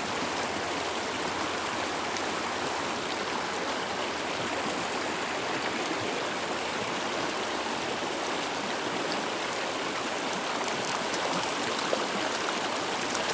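Mountain stream flowing, a steady water noise that holds at one level, with a few faint clicks near the end.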